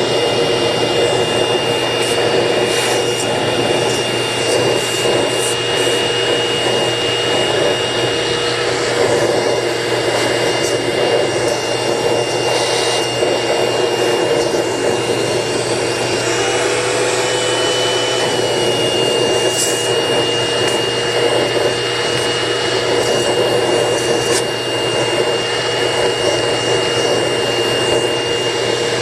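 Vacuum cleaner running steadily while it sucks dust off air conditioner filters, with a steady whine over the motor noise. The whine shifts briefly in pitch a little past halfway, as the nozzle's load changes.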